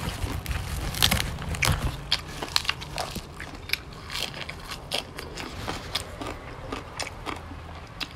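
Close-miked chewing of crisp raw leafy greens: irregular sharp crunches and wet mouth clicks, a few each second.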